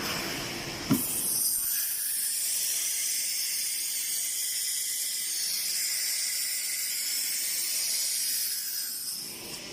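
Compressed air hissing steadily for about eight seconds from the automatic tool-change spindle of a 6090 ATC CNC router during a tool change, starting with a sharp click about a second in.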